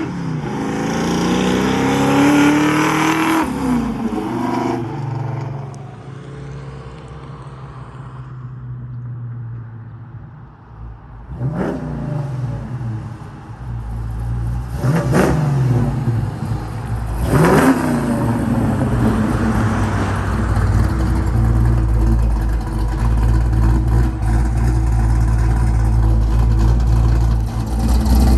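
Oldsmobile Cutlass engine revving up in the first few seconds, then running more quietly, then three quick revs of the throttle, each rising and falling sharply, before settling into a steady low rumble.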